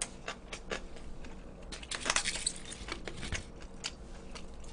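A person eating close to the microphone: chewing and mouth clicks, busiest in a crackly cluster about two seconds in.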